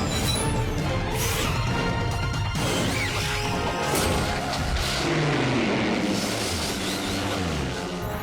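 Action background music from an animated cartoon soundtrack, with several crash and impact sound effects over it, the clearest about a second, two and a half seconds and four seconds in.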